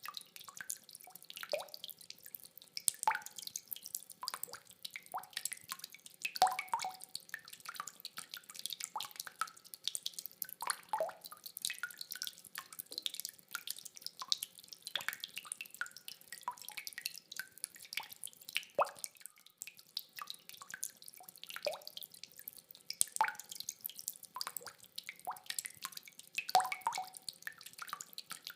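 Rain dripping: a steady, irregular stream of individual drops and plops, several a second, some with a short ringing pitch.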